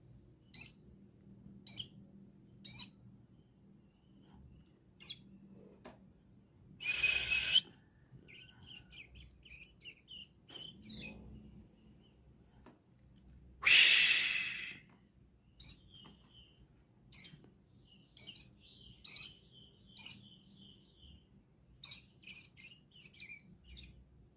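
Ciblek gunung (mountain prinia) calling with sharp, high single chirps about once a second, breaking twice into fast chattering ngriwik trills. Two loud harsh rasping bursts, each about a second long, come about a third and halfway through.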